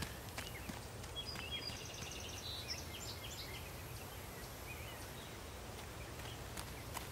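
Woodland ambience: a steady low rumble, with a bird calling in quick high chirps and a rapid trill from about one to three and a half seconds in.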